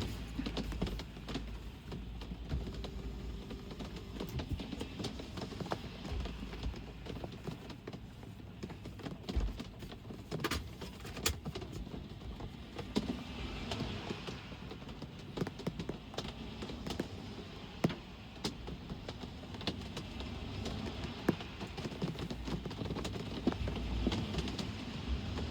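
Rain falling steadily with many scattered drips tapping, over the low rumble of road traffic. A vehicle passes close near the end.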